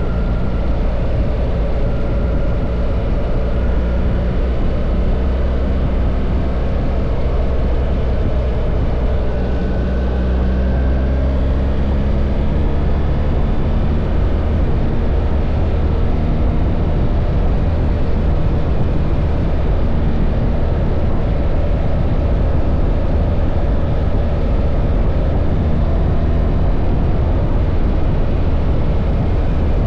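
BMW R1300 GS boxer-twin engine running steadily while the bike is ridden, heavily mixed with wind and road noise.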